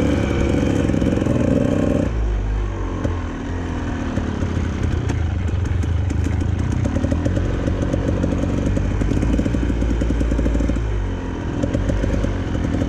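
Two-stroke dirt bike engine running under a rider on a trail, the throttle changing: a steady note at first, dropping about two seconds in and wandering up and down, then picking up again near the end.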